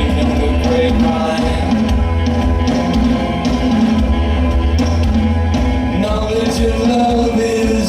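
Live rock band playing a song, with bass guitar, drums, electric guitar and singing.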